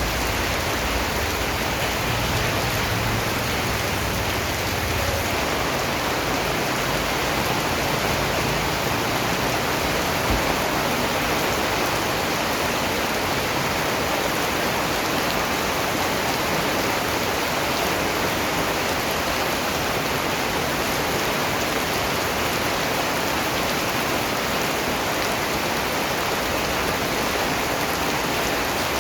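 Steady rain falling, an even hiss of raindrops with no change through the stretch.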